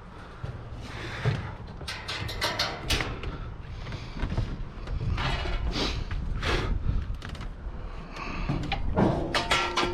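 Scattered knocks, clunks and scrapes as a load is handled and strapped down, with a busier run of clicks and knocks near the end, over a steady low rumble.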